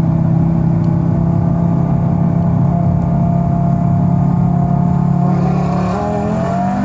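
Tuned Audi RS3's turbocharged five-cylinder engine running at a steady note, then revving up hard near the end as the car launches from a roll.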